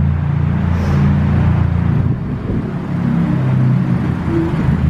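Ford Fiesta ST's engine running at low revs, a steady low engine note that shifts slightly in pitch partway through as the throttle changes.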